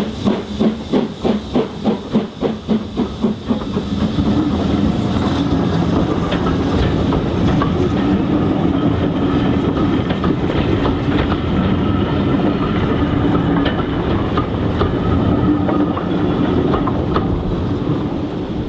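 Steam locomotive working a train, its exhaust beating about four times a second for the first few seconds, then giving way to the steady rumble of the train's wheels rolling past, with scattered clicks over the rail joints.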